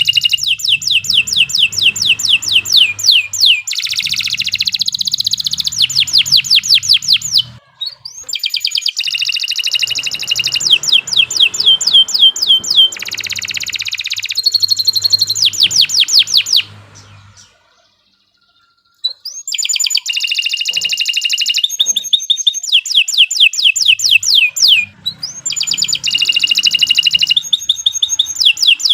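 Domestic canary singing: long, fast trills of rapidly repeated notes, in phrases broken by a short break about a third of the way in and a pause of about a second and a half past the middle.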